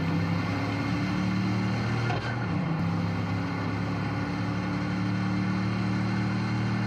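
Car engine sound from a video game, running at a steady pitch, with a brief shift in pitch about two seconds in.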